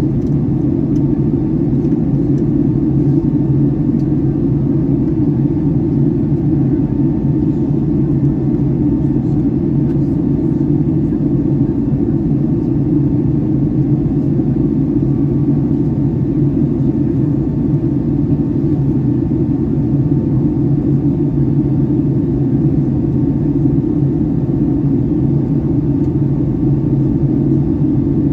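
Steady low rumble inside the cabin of a Boeing 757-300 airliner in flight: engine and airflow noise, even and unchanging throughout.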